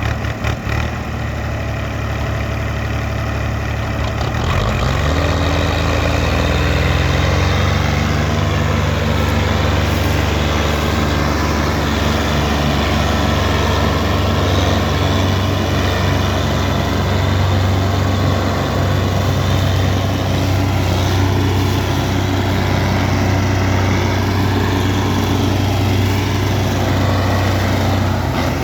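Diesel tractor engine revving up about five seconds in, then running steadily at high revs while pulling a loaded sugarcane trolley through mud.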